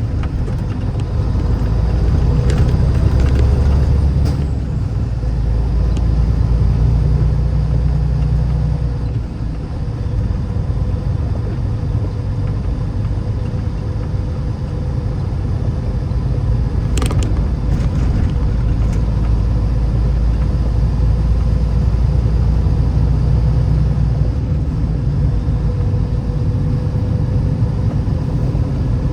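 A car driving on a snowy road: a steady low rumble of engine and road noise that swells and eases. There is a faint steady hum, and a brief click about seventeen seconds in.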